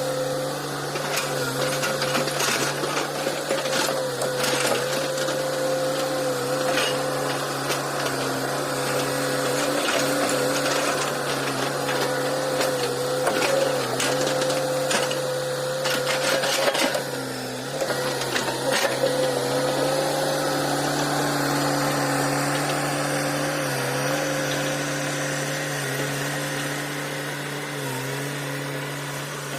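Hitachi hydraulic excavator working: the engine and hydraulic pump run steadily with a whine, the pitch dipping briefly several times as the machine takes load. Scattered knocks and clatter sound over it.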